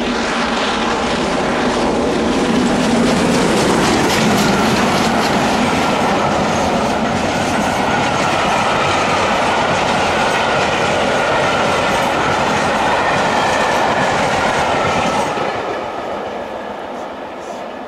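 A train passing close by, a loud steady rush of wheels on rail that builds at the start, holds, then falls away about fifteen seconds in as the train clears.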